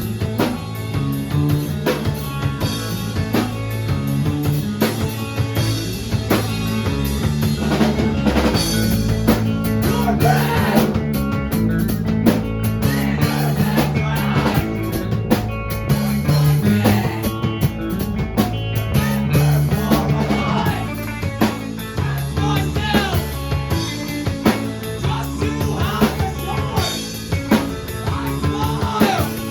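A live rock band plays a midwest-emo / math-rock song with drum kit, electric guitars and bass guitar.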